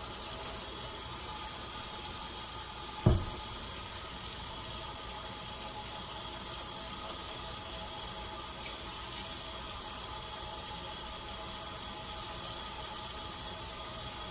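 Kitchen sink tap running steadily while hands are washed under it after handling raw chicken, with a single sharp knock about three seconds in.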